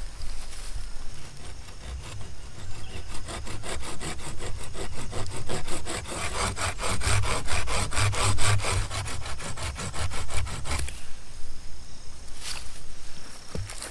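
Hand saw cutting through wood in rapid, even back-and-forth strokes, stopping about eleven seconds in.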